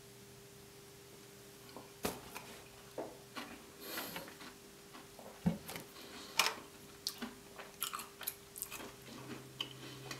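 Close-miked chewing of a mouthful of gingerbread and custard: a string of small, sharp mouth clicks and smacks at uneven intervals, starting about two seconds in.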